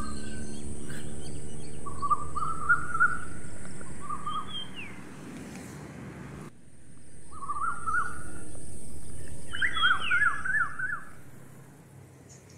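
Songbirds singing: short warbling phrases of quick rising notes, repeated several times, with a few higher sliding calls, over a steady high hiss. The background hum drops away abruptly about halfway through, and everything fades out near the end.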